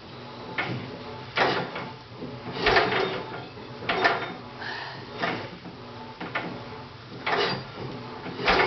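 Kohler 17 hp Series 2 twin-cylinder engine turned over slowly by hand, each compression stroke giving a short whoosh of air, about once a second. The strong puffs are a sign of good compression.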